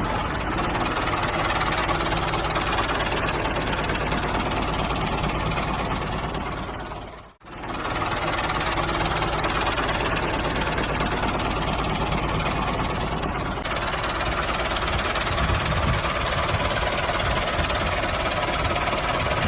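Small electric motor of a homemade mini toy tractor running steadily with a dense mechanical buzz. It cuts out for an instant about seven seconds in, then runs on.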